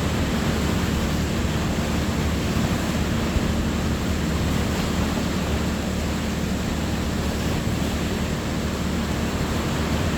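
Steady rush of sea surf, mixed with wind on the microphone.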